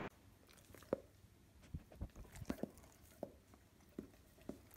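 Soft, wet smacking and clicking mouth sounds at irregular intervals, about a dozen in a few seconds: a dog licking.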